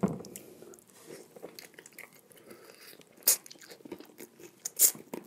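Close-up mouth sounds of a person chewing food, with many small wet clicks and two louder crisp crunches about three and a half and five seconds in.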